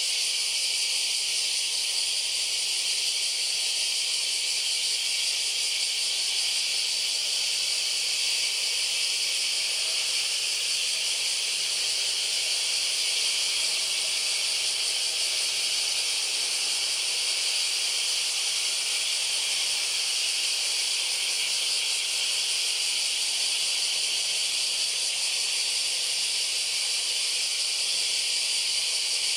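Chorus of cicadas in a steady, unbroken high-pitched drone.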